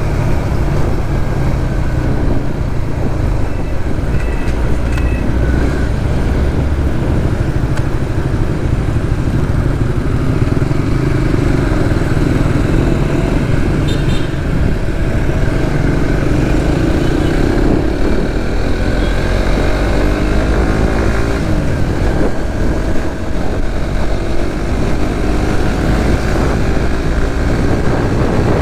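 Suzuki GSX-S150's single-cylinder 150 cc engine running while being ridden on the road, with the engine note rising a few times past the middle.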